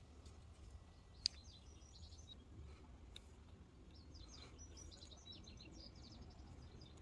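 Faint bird calls: two runs of quick high chirps, the first a little over a second in, the second from about the middle to near the end. A single sharp click comes just before the first run.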